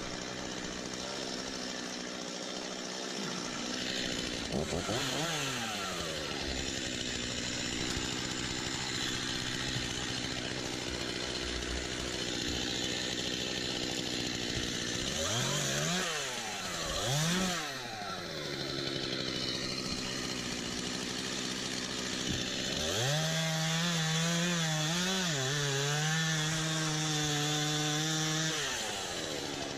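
Stihl MS 251 C two-stroke chainsaw idling, blipped up to high revs and back once and then twice in quick succession. Near the end it is held at high revs for about five seconds, its pitch wavering.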